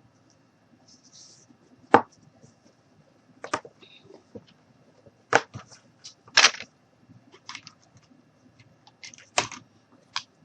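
Irregular clicks and short scratching sounds from hands wrapping and pressing rope around a glass wine glass, about seven sharp knocks spread unevenly through the stretch.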